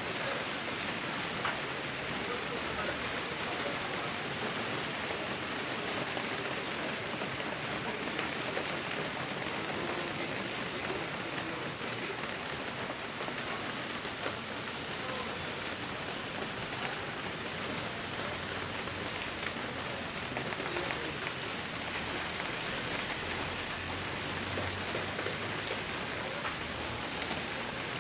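Rain falling steadily, a continuous hiss with scattered ticks of individual drops.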